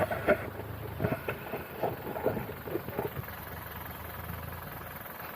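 Vehicle engine idling in a traffic jam, a steady low hum, with a few short sounds over the first three seconds.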